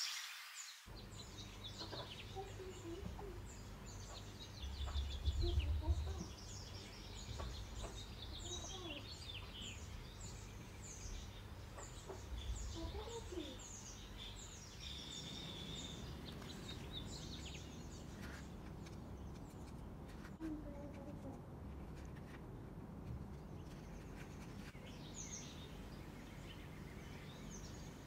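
Small birds chirping, many short quick calls, over a steady low rumble, with a louder low bump about five seconds in.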